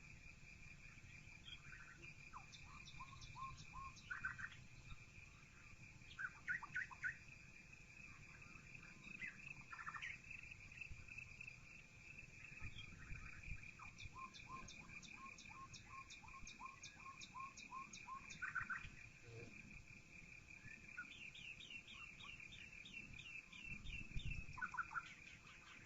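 Several birds singing and calling faintly: short chirps, trills and quick runs of repeated notes, over a steady high whine and a low background rumble.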